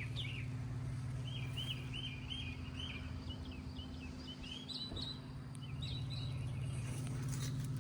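2000 GMC Sonoma pickup engine idling steadily, with birds chirping over it in quick repeated calls.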